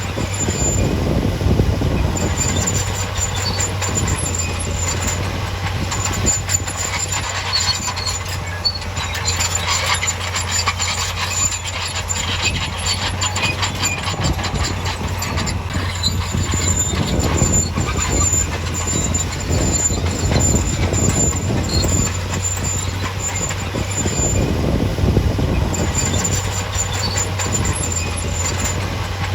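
Crawler bulldozer working: the diesel engine runs with a steady low drone while the steel tracks clank and rattle, with a high squeal that comes and goes from the track running gear.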